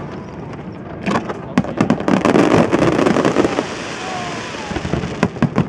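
Aerial fireworks display: shells bursting in sharp bangs over a steady rumble, with a dense patch of crackling about two seconds in and a quick run of cracks near the end.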